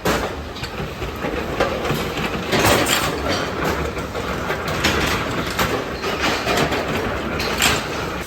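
Factory metalworking machinery running with a steady rumble and a rapid, uneven clatter of metal knocks.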